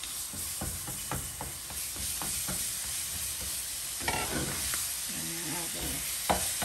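Minced chicken and sautéed aromatics sizzling in a hot frying pan as they are stirred, with a steady hiss and a spatula repeatedly scraping and tapping against the pan.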